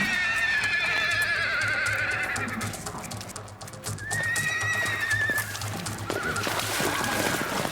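Horse whinnying: a long wavering neigh that falls in pitch over the first two seconds or so, then a second, shorter whinny about four seconds in, over background music.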